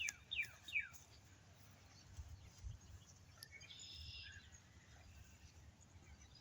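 A songbird singing a run of clear whistled notes, each sliding down in pitch, about three a second, ending about a second in; a fainter high call follows near the middle. Faint outdoor background under it.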